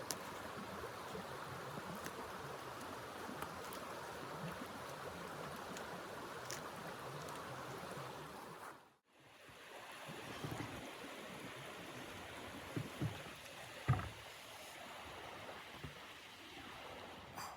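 Steady rushing noise of blizzard wind. It fades out briefly about halfway through, and a few dull knocks sound after it returns.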